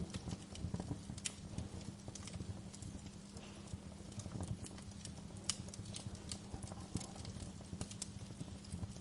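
Wood fire crackling, with irregular sharp pops and snaps several times a second over a low, steady rumble.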